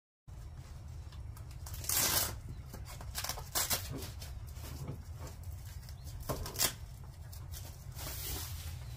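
Rustling and handling noises as parts of a Step2 Pump & Splash Shady Oasis water table are worked on during assembly, in several short bursts over a steady low hum.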